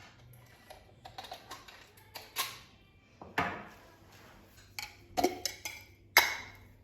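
Dishes and kitchen utensils being handled: an irregular run of clinks and knocks, several with a short ring, the loudest near the end.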